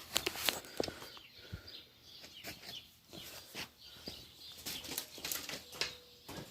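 Scattered light clicks and knocks of handling, thickest in the first second, with faint bird chirps behind.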